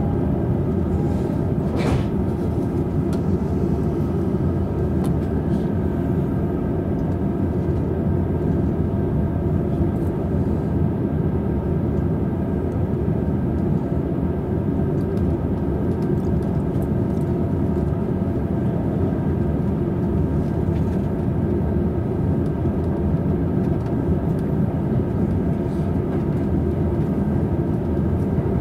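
Steady rumble and hum inside a double-decker Green car of a Tokaido Line electric commuter train, standing at a station and then pulling slowly away. A brief click sounds about two seconds in.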